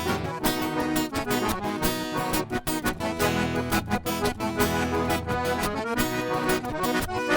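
Accordion playing a melody over strummed string accompaniment in an instrumental introduction to a gaúcho-style song, with a steady rhythm and no singing yet.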